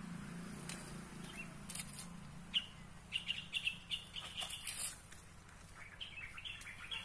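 Small bird chirping in quick series of short, high calls: one run from about two and a half seconds in, another near the end.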